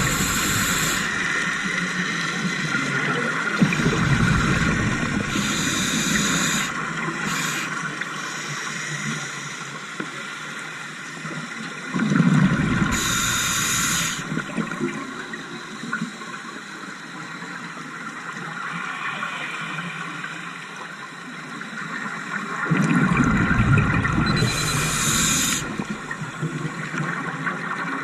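Scuba diver's regulator breathing underwater: a sharp hiss of each inhalation, then a low rush of exhaled bubbles, about three breaths roughly ten seconds apart.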